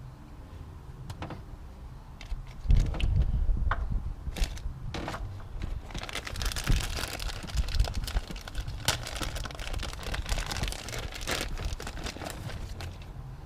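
Plastic vacuum tubing and fittings of a truck's four-wheel-drive vacuum system being handled and worked loose: scattered clicks with plastic crackling and rustling, a louder low bump about three seconds in, and denser crackling from about six seconds in.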